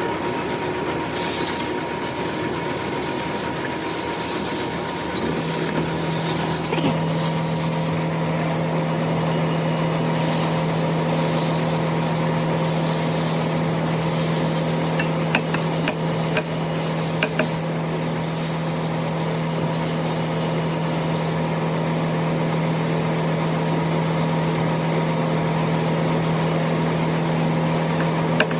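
Metal-turning lathe running steadily over a constant hiss; about five seconds in, a strong steady hum sets in. There are a few sharp ticks near the middle and again near the end.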